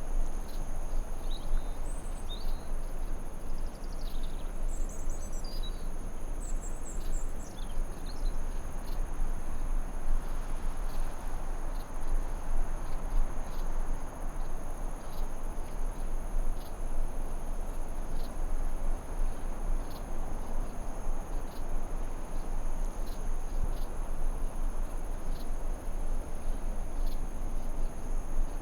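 Forest ambience: a steady high-pitched cricket trill over an even hiss, with a few short bird chirps in the first several seconds.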